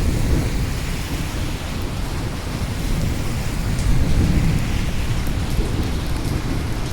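Steady rain hissing down, with low thunder rumbling beneath it and swelling near the middle.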